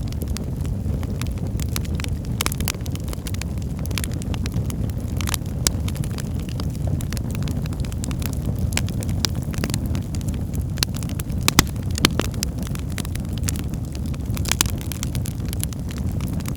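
Wood fire burning in a fireplace: a steady low roar with frequent sharp crackles and pops, a few louder pops about two thirds of the way through.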